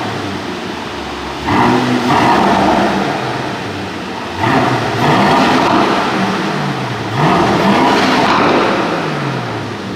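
Aston Martin DBX's AMG-built 4.0-litre twin-turbo V8 revved three times in Sport Plus mode with the exhaust valves open. Each blip jumps up sharply, then the revs sink slowly back down.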